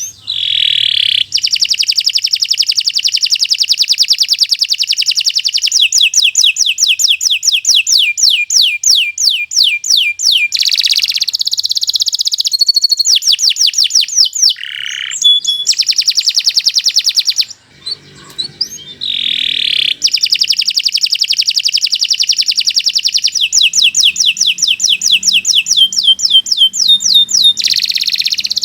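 Domestic canary singing a long, loud song: phrases of fast buzzing rolls and slower trills of evenly repeated notes, each held for several seconds, with one short break a little past the middle.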